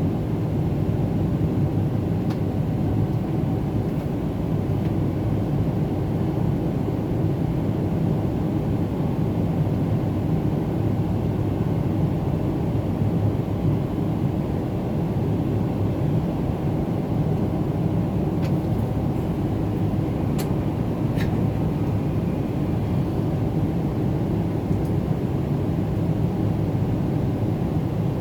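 Steady cabin drone of a Boeing 777-300ER in flight, the engine and airflow noise heard from a front-cabin window seat, heavy in the low end. A few faint ticks come about two-thirds of the way through.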